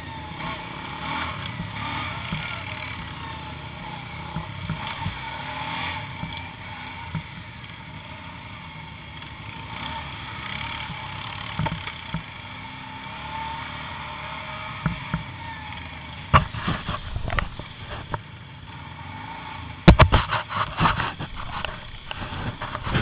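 ATV engine running steadily. Loud sharp knocks and thumps come in the last seven seconds, the loudest about twenty seconds in.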